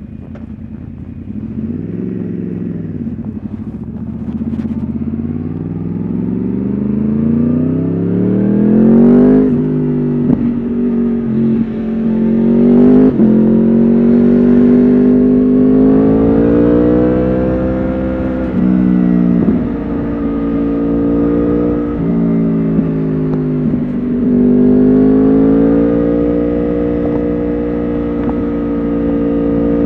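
Yamaha R1 RN22's crossplane inline-four running through an Akrapovič exhaust, pulling up through the revs under acceleration. A sharp drop in pitch comes about nine and a half seconds in and again near thirteen seconds as it upshifts. In the second half it holds fairly steady revs with short dips and rises.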